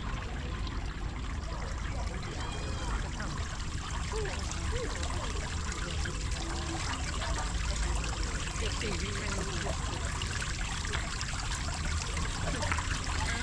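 Hot spring water trickling and flowing steadily, with faint voices of people in the background.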